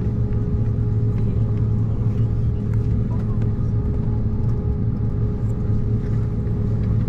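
Steady cabin noise inside an Embraer 190-E2 airliner: its Pratt & Whitney PW1900G geared turbofan engines and airflow make a constant low drone with a fixed hum tone over it.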